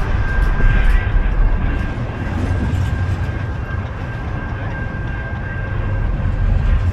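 Train going by: a heavy low rumble, with a thin steady high-pitched tone above it.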